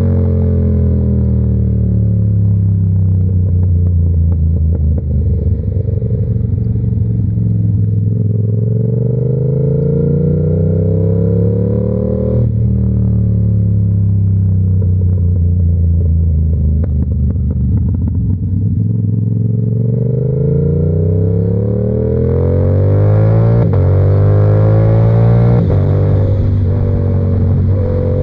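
Yamaha R7's 689 cc parallel-twin engine with an SC-Project exhaust, heard from the rider's seat. The revs fall as the bike slows, then climb under acceleration with a quick upshift about twelve seconds in and another about two-thirds of the way through, before rising again near the end. Wind rush grows as the speed builds.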